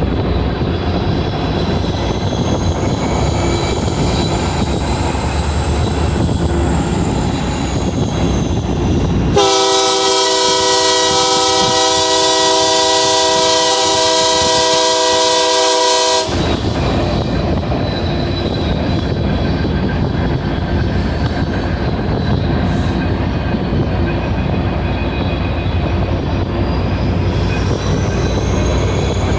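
Union Pacific diesel train rolling by with a steady running noise on the rails, and one long locomotive horn blast of about seven seconds in the middle.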